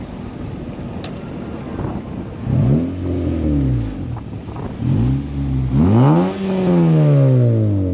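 A car engine revved several times in quick blips, each rising and falling in pitch, then a longer rev that falls away slowly near the end.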